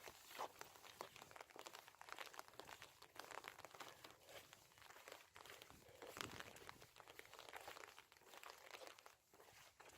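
Faint footsteps crunching on a path, with irregular light crackles throughout.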